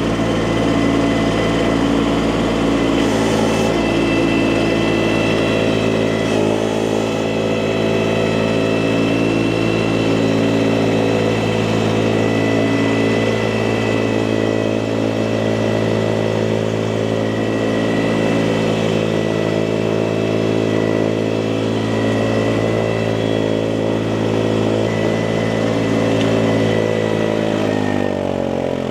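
Small engine of hydraulic firewood equipment running steadily at high speed, with a steady high whine over it. Near the end its pitch sags and then climbs back, as if briefly taking a load.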